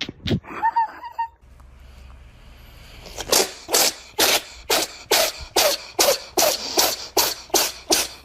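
A cat making short, breathy, noisy sounds in a steady run of about two to three a second from about three seconds in.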